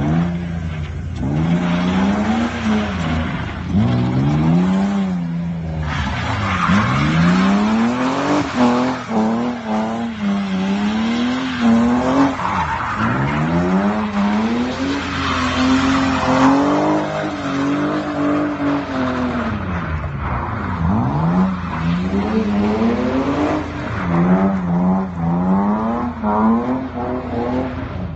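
BMW 325i's straight-six engine revving hard and falling back over and over, with tyres squealing and skidding as the car is slid through tight turns on tarmac.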